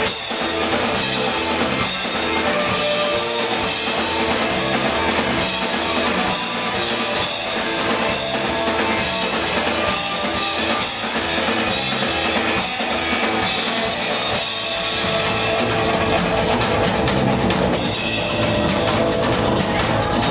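Live rock band playing an instrumental break: drum kit keeping a steady beat with bass drum, under guitar and bass, with a long held note coming in about three-quarters of the way through.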